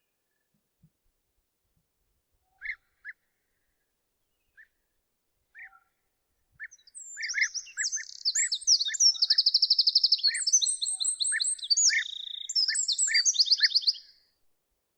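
Songbirds singing: one bird gives short, evenly spaced call notes about once a second. A second bird adds a fast, varied warbling song with rapid trills from about halfway through, stopping shortly before the end.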